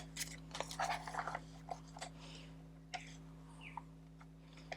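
Faint rustling and light clicks of card and a ruler being handled on a desk, a few small scattered taps over a steady low electrical hum.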